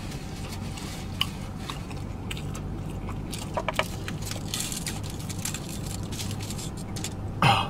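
Chewing and mouth smacking while a messy cheeseburger is pulled apart by hand, with scattered small clicks and crackles over a steady low hum. A short falling hum of the voice comes near the end.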